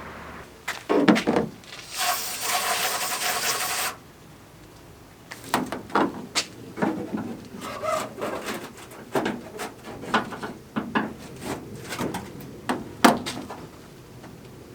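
A two-second hiss of aerosol wasp spray about two seconds in, after a couple of knocks. Then a run of irregular knocks and scraping, with one sharp knock near the end.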